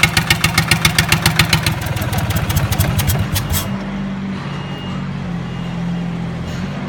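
Rebuilt Lister Petter SR3 air-cooled three-cylinder diesel engine running with a strong, regular beat. The beat quickens and then cuts off abruptly about three and a half seconds in, leaving a lower, steady hum.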